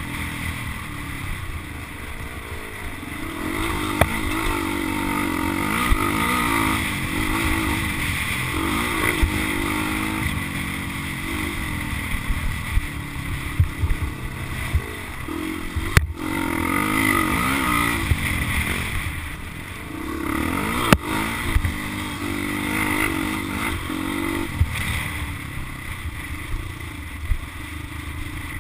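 Motocross dirt bike engine revving up and down again and again as the bike is ridden, with a few sharp knocks along the way.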